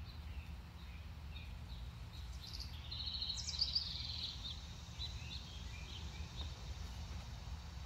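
Small birds chirping, with a quick run of bright high notes about three to four seconds in, over a steady low outdoor rumble.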